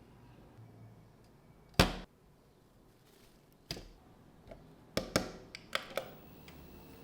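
Handling clicks and knocks: one loud knock about two seconds in, then a few lighter clicks and taps near the end.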